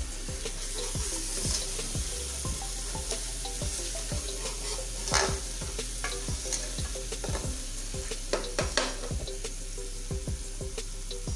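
Onions, garlic and ginger frying in oil in a metal pot: a steady sizzle, with a slotted metal spoon scraping and knocking against the pot as it is stirred. The knocks are loudest about five seconds in and again around eight to nine seconds.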